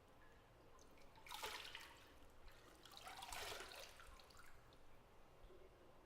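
Bathwater sloshing and splashing in a bathtub, in two short soft stretches, the first about a second in and the second around three seconds in.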